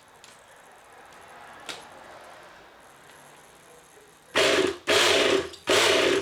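Electric starter spinning an RC nitro helicopter engine in three short bursts of whirring, starting about four seconds in, each about half a second long. The engine is being turned over to judge by its sound whether the carburettor throttle is open or closed.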